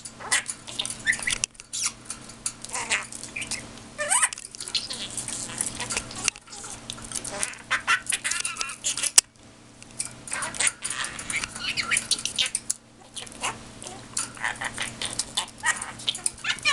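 Pet bird chattering at its mirror: a rapid, continuous stream of chirps, warbles and short whistled glides with brief pauses, and one sharp click about nine seconds in.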